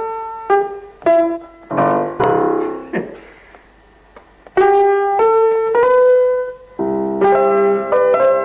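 Keyboard instrument playing single notes and chords, each note dying away after it is struck, with a short pause about three and a half seconds in before fuller chords resume.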